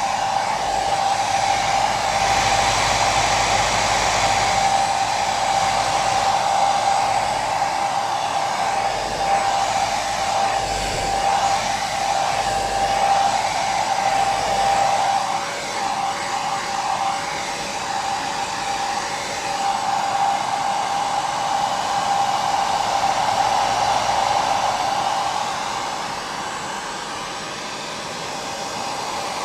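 Hair dryer running continuously: a steady rushing of air with a constant motor whine, whose pitch dips slightly about halfway through.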